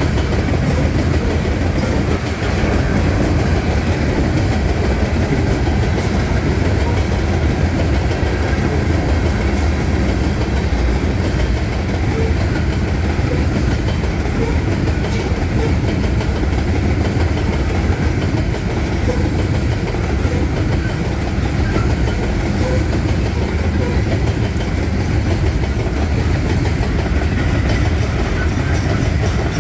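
Freight train cars rolling past at a steady speed: a continuous heavy rumble with the clickety-clack of wheels over the rail joints.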